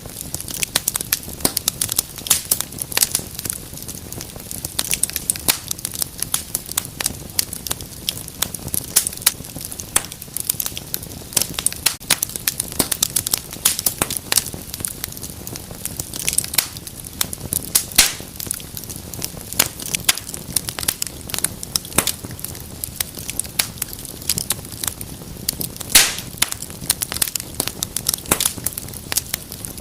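Wood fire burning in a fireplace, crackling with many irregular sharp pops, a few louder snaps standing out, over a soft steady hiss.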